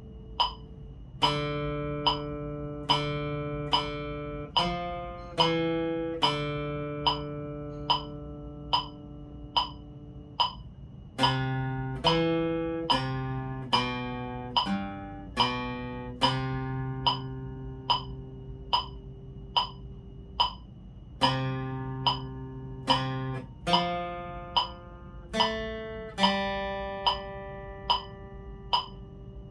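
Acoustic guitar playing a slow single-note melody in C major, one plucked note at a time, with a metronome ticking about one and a half times a second in three-beat time, the first beat of each bar accented.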